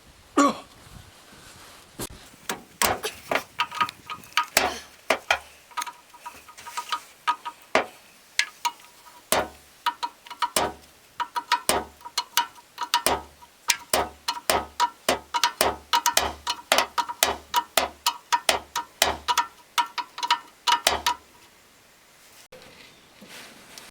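Ratchet wrench worked in quick strokes on the crane's hydraulic fittings: a long run of sharp metallic clicks, a few a second, with a faint ring, stopping about three seconds before the end.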